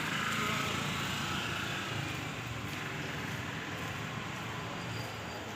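A motor vehicle running close by, its engine with a hiss that is loudest in the first two seconds and then eases off slightly.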